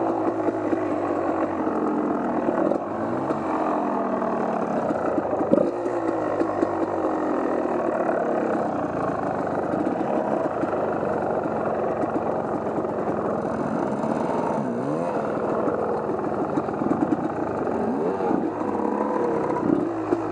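Off-road vehicle engine being ridden on a trail, its pitch rising and falling over and over as the throttle is worked.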